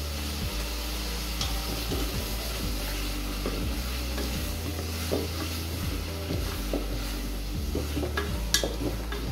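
Onions, tomatoes and green chillies sizzling in oil in an aluminium pressure cooker while a wooden spatula stirs them, scraping and knocking against the pot, with a sharper knock near the end.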